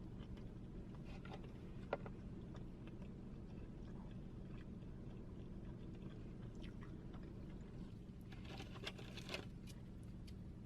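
Close-miked mukbang eating sounds: a person chewing and crunching food, soft scattered crackles over a low hum, with a denser run of crunches near the end.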